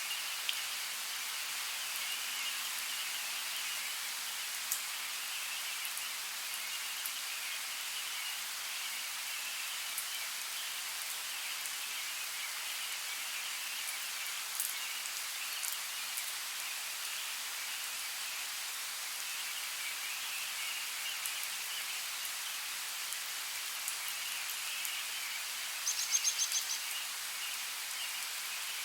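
Steady forest rainfall: an even hiss with scattered drops ticking. Near the end a bird gives a short, rapid chattering call.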